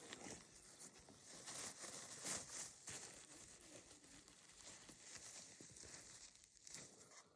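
Rustling and crackling of dry forest-floor litter, with irregular crunches that start and stop abruptly.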